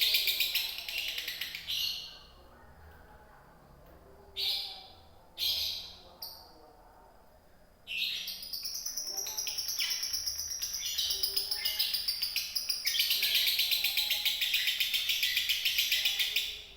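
Lovebird singing in the long, rapid, rattling 'konslet' style: fast unbroken chattering trills. After the first run it breaks off for a few seconds with two short bursts, then launches into a long run of about eight seconds that stops abruptly near the end.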